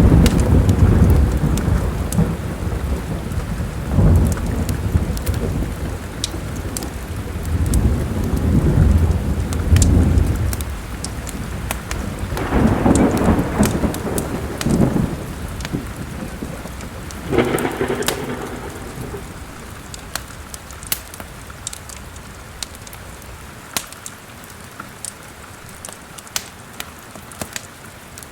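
Thunder breaks in suddenly and rumbles deep and loud for about ten seconds, then rolls twice more and fades, over steady rain. The sharp crackle and pop of a wood fire in a fireplace runs throughout.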